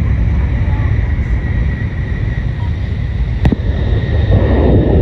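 Running noise of a Nishi-Kyushu Shinkansen N700S train heard inside the passenger cabin: a steady low rumble with a faint high whine. There is a single sharp click about three and a half seconds in, and a rush of noise near the end.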